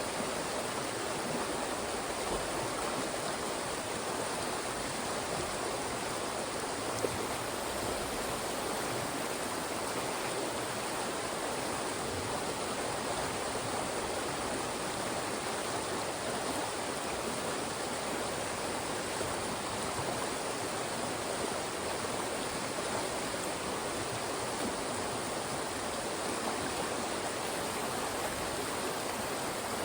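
A fast-moving mountain stream rushing steadily over and between rocks, a dense, even rush of water.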